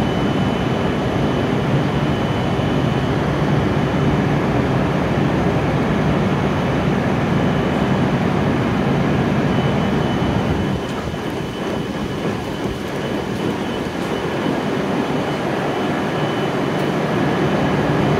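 Steady hum and whir of an E7 series Shinkansen standing at the platform with its doors open, its onboard equipment running, easing slightly for a few seconds past the middle.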